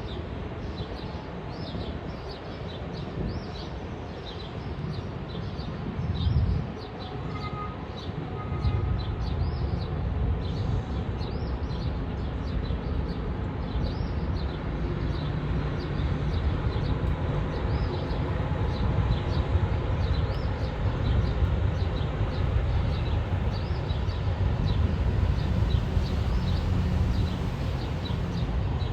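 Low, steady rumble of a train rolling along the track, with birds chirping over it.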